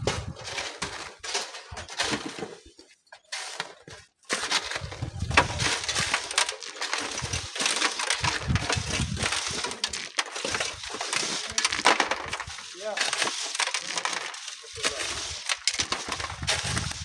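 Strong gusty wind buffeting the microphone in irregular low rumbling blasts, over gritty crunching and scraping of sand and gravel.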